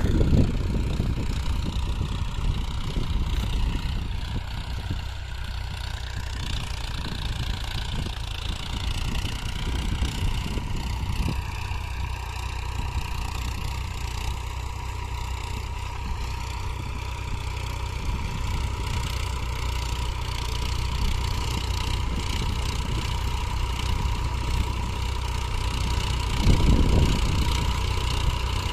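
Massey Ferguson tractor's diesel engine running steadily, with a brief louder surge near the end.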